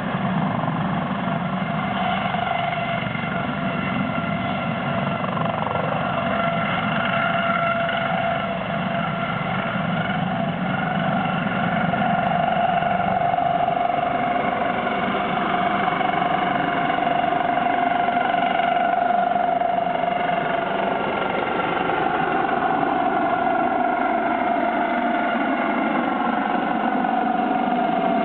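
Helicopter running, a steady turbine whine of several tones over rough rotor noise, the low noise thinning out in the last few seconds.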